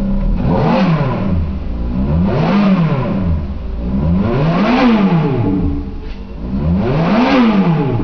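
Ferrari 430 Scuderia's V8 engine free-revving in neutral: four blips, each climbing to around 5,000 rpm and falling back to idle.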